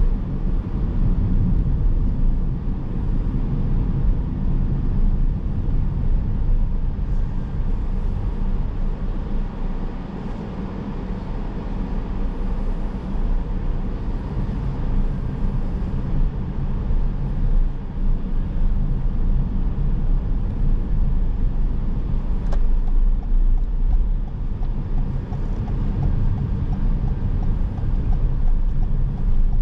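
Car driving on town streets: steady low tyre and engine rumble, easing a little about ten seconds in.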